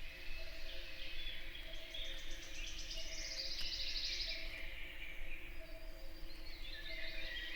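Morning woodland bird chorus: several songbirds sing overlapping phrases, with a fast, high trill about three seconds in.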